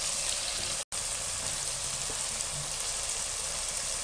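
Chicken necks with tomato and green chillies sizzling steadily in oil in a non-stick wok as the masala is fried down (bhuna). The sound drops out for a split second about a second in.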